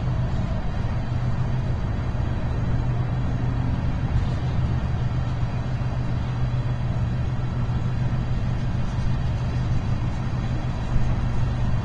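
BNSF freight train rolling past with a steady, continuous low rumble of wheels on the rails.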